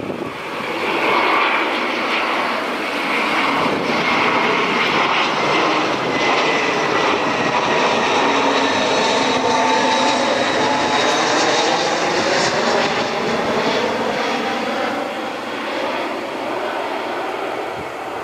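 Airbus A320 jet engines passing close by. A loud, steady rush of jet noise builds about a second in and holds, with a thin whine that slides slightly lower in pitch as the aircraft goes past. The noise eases off near the end.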